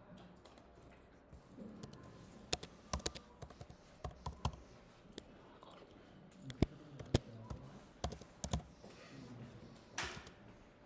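Typing on a computer keyboard: irregular key clicks in short runs, with a brief hiss near the end.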